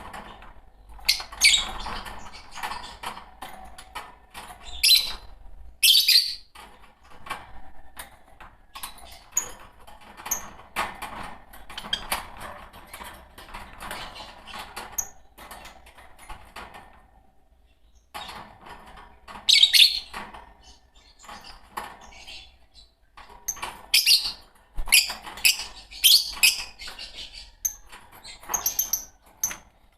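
A pair of Fischer's lovebirds chattering continuously, with sharp high chirps breaking out now and then and a brief lull about two-thirds of the way in.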